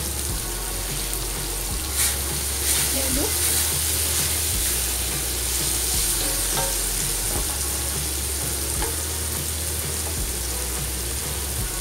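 Shredded cabbage, carrot, chilli and spring onion sizzling in hot oil in a wok as they are stir-fried, the spatula scraping and tossing them against the pan. The sizzle is steady, with a sharp clack about two seconds in.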